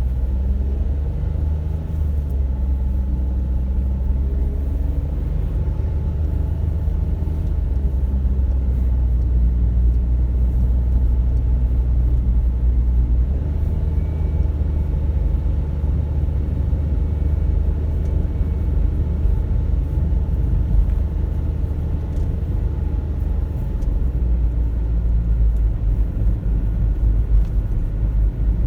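A car driving, heard from inside the cabin: a steady low rumble of engine and road noise, with the engine's hum rising and falling slightly in pitch.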